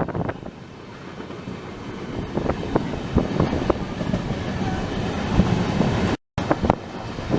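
Passenger train running along the track: a low rumble with irregular clicks and knocks of the wheels over rail joints. The sound cuts out briefly about six seconds in.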